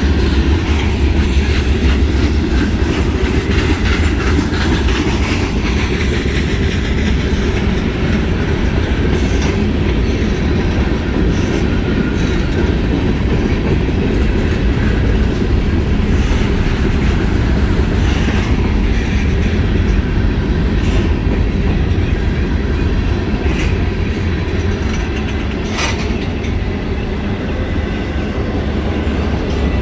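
CSX mixed freight train's cars rolling past, a loud steady rumble of wheels on rail with scattered clacks and clicks over the rail joints.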